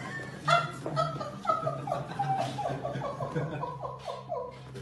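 A person laughing in a long run of short, falling "ha" sounds, about three a second, over a steady low hum.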